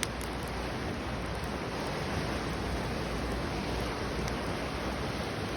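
Wood campfire burning: a steady hiss of flame with a few scattered crackles and a sharp pop right at the start.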